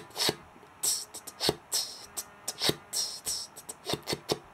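Beatbox rhythm of short, hissy inward 'sip' sounds sucked in through the teeth as reversed hi-hats, with deeper kick-like thumps about once a second.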